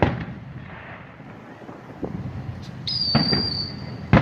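Aerial fireworks going off: a sharp bang at the start and another near the end, with smaller pops between. About three seconds in, a high steady whistle lasts under a second, as from a whistling firework.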